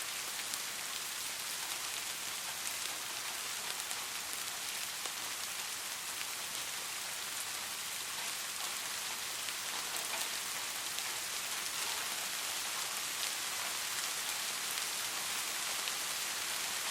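Steady soft rain falling on a surface, an even hiss with scattered individual drops ticking.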